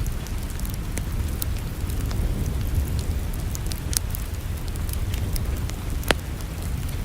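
Wood fire crackling in a fireplace: scattered sharp ticks and pops over a low, steady rumble, with one louder pop about six seconds in.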